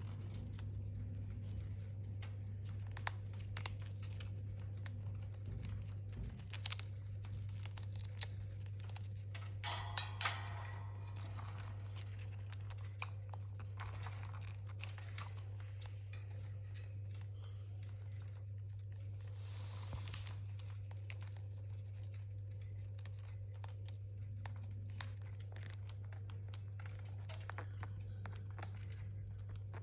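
A parrot chewing and shredding, heard as scattered crackling and crunching clicks, busiest in the first third and again about two thirds in, over a steady low hum.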